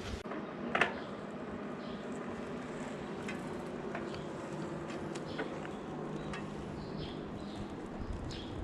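Steady background ambience with scattered light clicks and taps, one sharper click about a second in.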